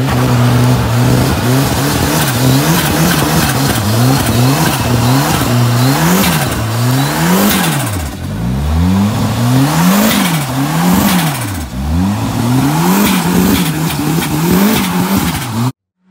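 A car engine revved hard again and again, its pitch rising and falling about once a second, before it cuts off suddenly near the end.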